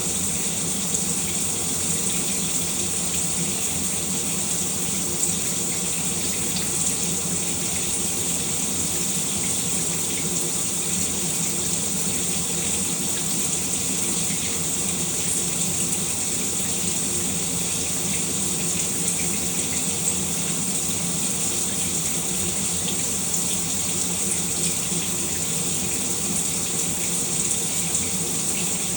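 Shower running steadily, its spray of water hissing without a break, with faint ticks of droplets.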